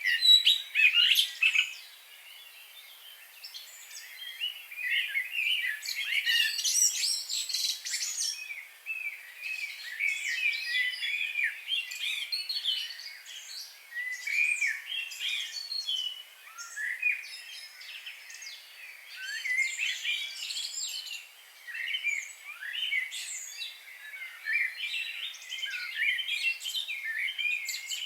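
Several birds chirping and singing together in a dense chorus of quick, high chirps and warbles, with a brief lull about two seconds in.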